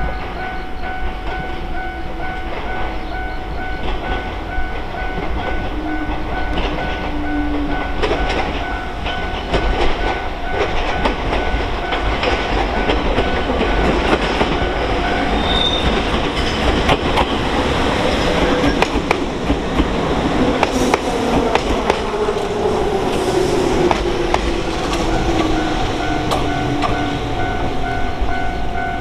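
Rail vehicle running on the track, with wheel clatter and continuous mechanical noise that grows louder after about ten seconds.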